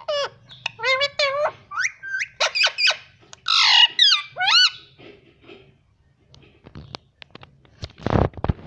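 Indian ringneck parakeet calling and chattering in a quick run of short, bending, speech-like calls, with a harsh squawk about three and a half seconds in. After a quieter stretch, a short loud burst of noise comes near the end.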